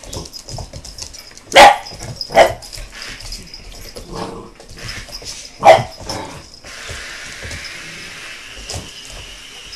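An American Bulldog puppy barking: three loud single barks, the first two close together early on and the third a few seconds later, with a softer bark between them. About two-thirds of the way through, a steady whirring starts and carries on.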